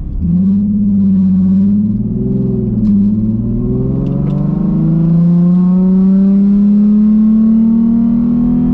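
Car engine accelerating hard under load: the pitch wavers for a couple of seconds, then climbs slowly and steadily for about five seconds before dropping off near the end as the throttle is lifted.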